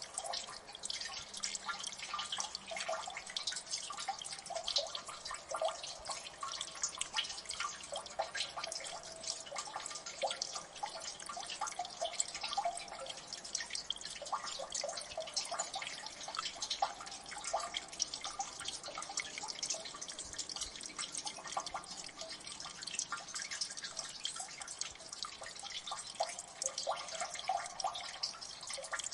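Water dripping in a gully: many small drops falling continuously and irregularly, plinking over one another with no pause.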